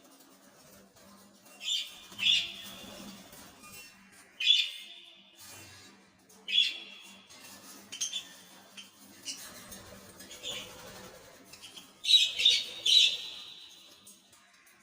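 Lovebirds giving short, shrill squawking calls, one every second or two, with three in quick succession near the end.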